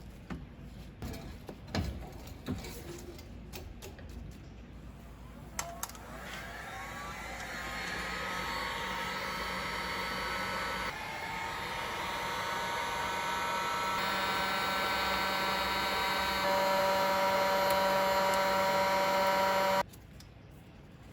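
A few clicks and knocks, then a small electric motor winds up to a steady high whine that steps louder a few times and cuts off suddenly near the end.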